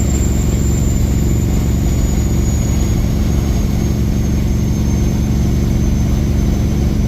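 Kenworth W900 semi truck's diesel engine running steadily while driving, a loud, even drone, with a faint high whine that slowly drops in pitch.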